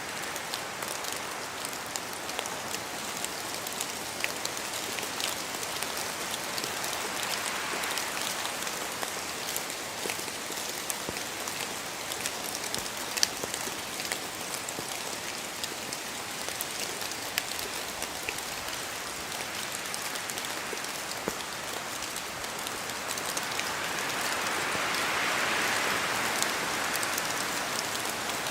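Steady rain in a forest, with many separate drops ticking as they fall from the trees. The hiss swells louder about eight seconds in and again near the end.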